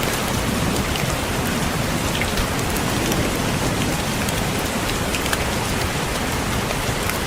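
Steady rain with scattered individual drops tapping on a window.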